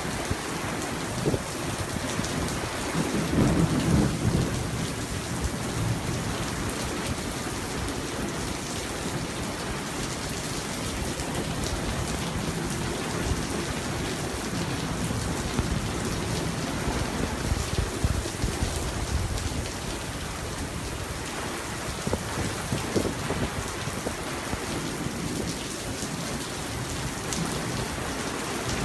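Steady rain falling during a thunderstorm, with a low rumble of thunder swelling about three to four seconds in.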